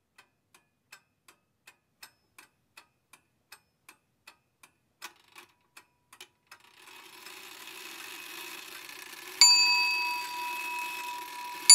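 A clock ticking, close to three ticks a second, which stops about six and a half seconds in. A steady hiss follows, then a bell is struck once and rings out slowly, struck again right at the end.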